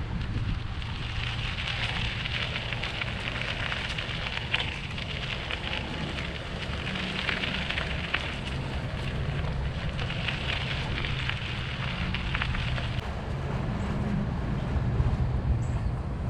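Wind rumbling on the microphone of a moving bicycle, with a high hiss that swells and fades three times and stops near the end.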